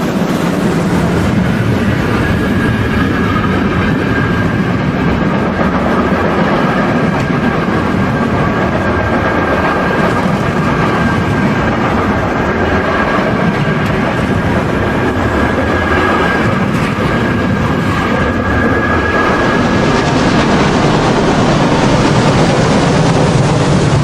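Märklin model steam train with a long string of coke wagons running along the layout track, wheels clattering steadily over the rails. A faint thin high tone sounds along with it for most of the time and fades out near the end.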